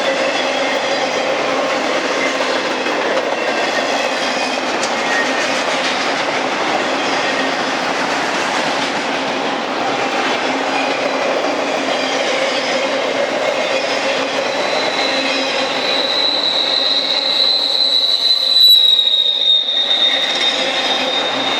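Norfolk Southern intermodal freight train's cars rolling past, a steady rush of wheels on rail, with a high-pitched wheel squeal coming in about two-thirds of the way through and holding for several seconds.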